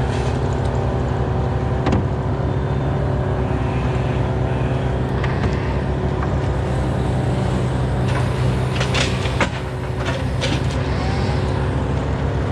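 Engine running steadily at a constant speed, with a few short sharp clicks about nine seconds in.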